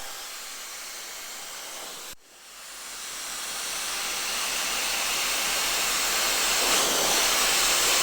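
Dyson hair dryer blowing through its concentrator nozzle: a steady rush of air that cuts out briefly about two seconds in, then comes back and swells gradually louder.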